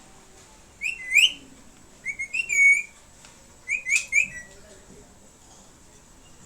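A parrot giving loud, short whistled chirps in three quick bursts, each made of a few rising notes.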